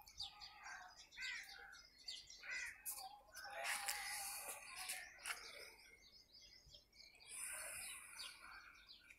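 Birds chirping repeatedly, faint, with a few sharp clicks in the middle.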